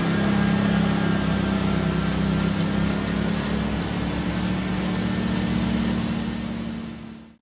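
An engine running steadily with a low hum and a hiss over it, fading out near the end.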